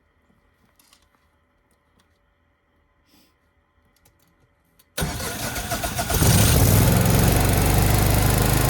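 Faint clicks, then about five seconds in a standby generator's engine cranks and catches suddenly and settles into steady, loud running. The generator has a fault that makes it shut down on a voltage error, later traced to a failed circuit board.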